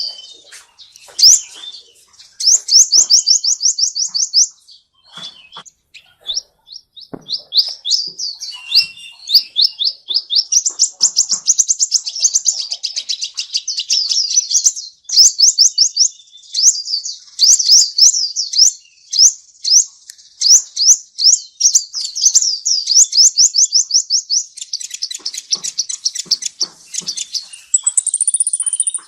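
A small songbird singing a long, fast song: rapid trills of repeated sweeping high notes, broken by short pauses, with a higher rising note near the end.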